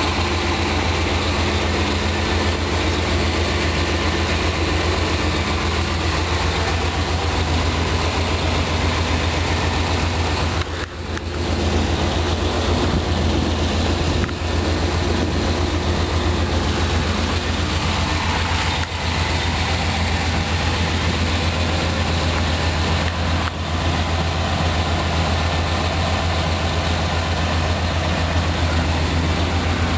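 1990 Chevrolet Suburban's 5.7-litre V8 idling steadily, with a strong low hum and a few brief dips in level.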